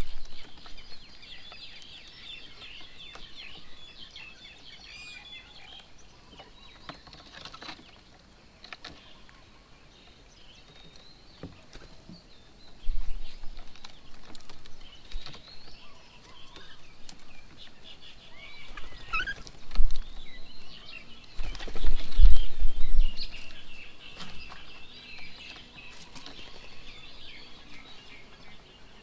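Small birds chattering and calling, busiest at the start and again near the end, with wing flaps and several loud low thumps about halfway through and two thirds of the way in as birds come and go at a feeding table.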